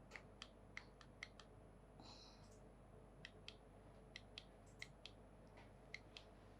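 Faint, irregular clicking at a computer, about two sharp clicks a second, with a brief soft rustle about two seconds in.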